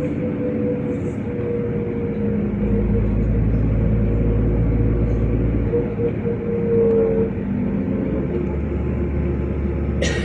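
LiAZ 5292.65 city bus running on the move, its engine and drivetrain droning steadily with a low rumble, heard from inside the passenger cabin; the engine note rises and falls slightly. A couple of sharp knocks come at the very end.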